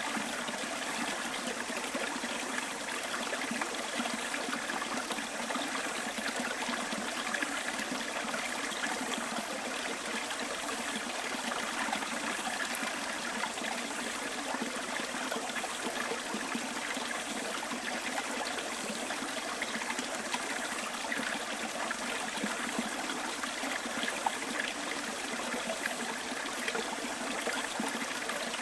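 Stream water running with a steady, even trickling flow.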